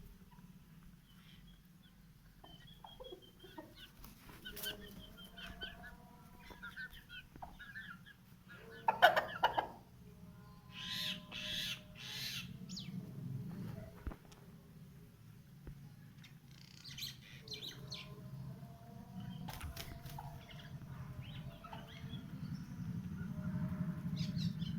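Aseel chickens clucking and calling, with a loud flurry of wing flapping about nine seconds in and another a couple of seconds later. A steady low hum runs underneath and grows louder near the end.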